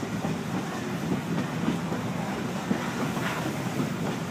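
Narrow-gauge steam train rolling along the track, heard from an open passenger car: a steady rumble of wheels on rail with scattered clicks and clanks.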